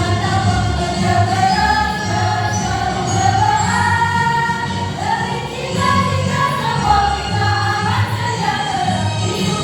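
A choir singing a march song over an accompaniment with a steady low beat.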